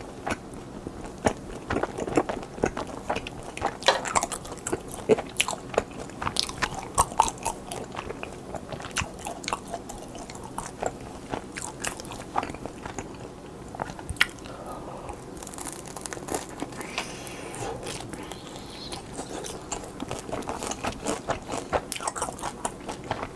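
Close-miked chewing and biting of a pan-fried dumpling: wet mouth sounds and crunchy bites made up of many short, sharp clicks.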